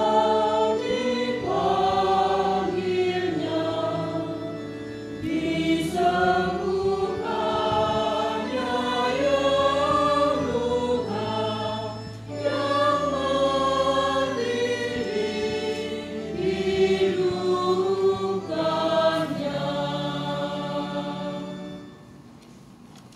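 A choir singing a hymn over sustained low instrumental notes; the music ends about 22 seconds in.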